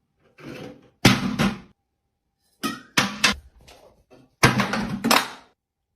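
Several bursts of clattering and knocking, in four clusters, the loudest about a second in and again near the end.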